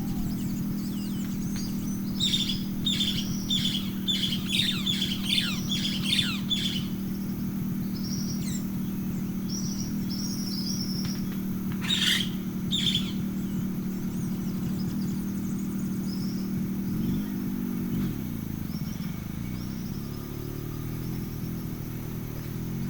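Tropical forest birds singing: a quick run of about ten down-slurred chirps a couple of seconds in, two more loud notes about halfway through, and softer chirps between. A steady low hum runs underneath and shifts in pitch near the end.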